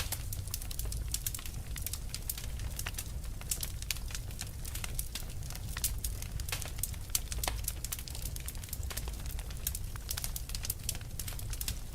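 Wood fire burning with dense, irregular crackling and popping over a steady low rumble of the flames.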